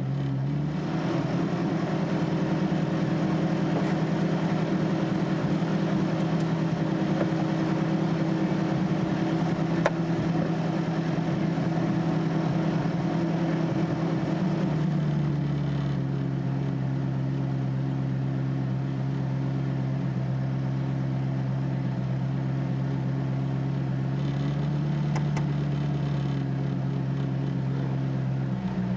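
Ferrari F40's twin-turbo V8 running at a steady fast idle, heard from inside the cockpit. The revs come up a little just after the start and hold steady, then ease to a slightly lower steady note about halfway through.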